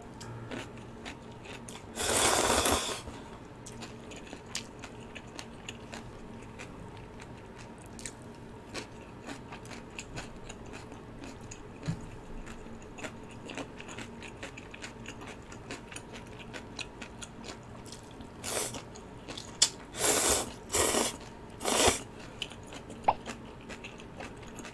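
Close-miked chewing of a big mouthful of kimbap (seaweed-wrapped rice roll), with many small wet mouth clicks throughout. A loud noisy burst of about a second comes about two seconds in, and several short loud noisy bursts come near the end.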